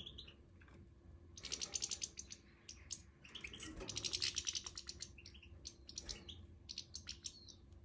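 A group of European goldfinches chattering: rapid, high twittering calls in bursts, loudest about a second and a half in and again around four seconds in.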